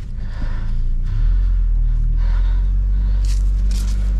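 Vehicle engine running, a low steady rumble that gets louder about a second in, with a few brief clicks near the end.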